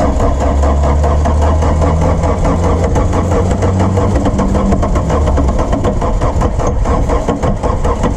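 Starter motor cranking the diesel engine of a 1981 Volkswagen Rabbit pickup that has sat unused for about 17 years, turning it over in a fast, steady rhythm as it tries to start.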